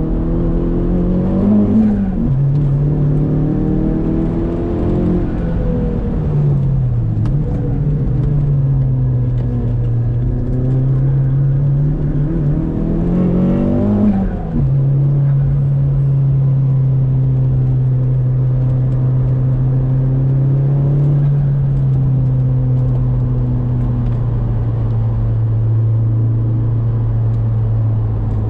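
Saab 9-3 Aero's turbocharged four-cylinder engine heard from inside the cabin while driven hard: the revs climb and drop sharply at a gear change about two seconds in, fall and pick up again around six to seven seconds, climb to another sharp shift about fourteen seconds in, then hold nearly steady for the rest.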